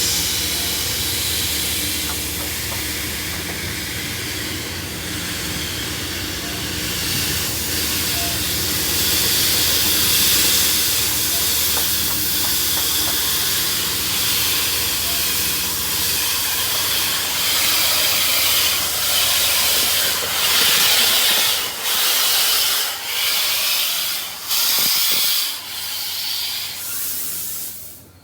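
Steam locomotive venting steam: a loud, steady hiss that breaks into short pulsing bursts over the last several seconds, then cuts off.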